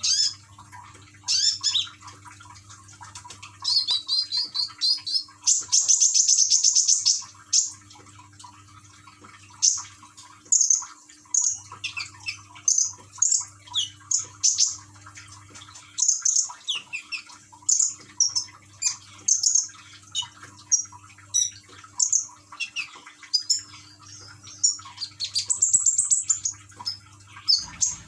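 Konin songbird chirping busily in short high calls and rapid trills, with a long buzzy trill about six seconds in and another near the end. Faint water trickling underneath.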